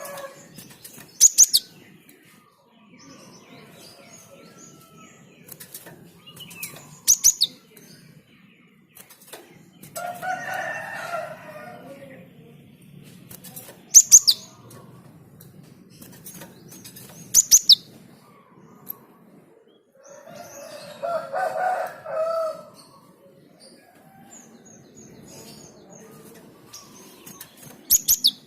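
Java sparrow calling: loud, sharp, high notes in quick clusters of two or three, coming every few seconds. A rooster crows twice in the background, about ten and twenty-one seconds in.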